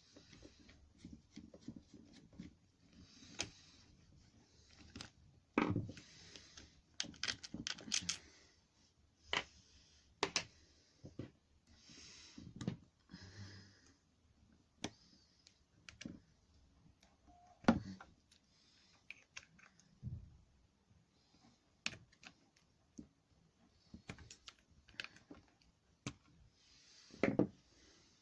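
Irregular clicks, taps and knocks of hand tools and small plastic and metal parts being handled while working on a hedge trimmer's carburettor, with short hissing sounds in between.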